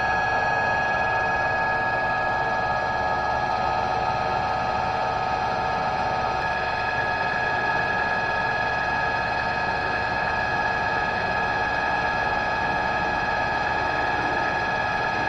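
An electric shop machine's motor running at a steady speed: an even whine of several held tones, with no change in pitch or load.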